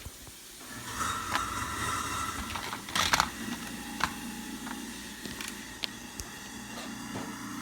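Plastic Lego pieces and figures being handled: scattered light clicks and taps, a couple close together about three seconds in, over a steady background hum.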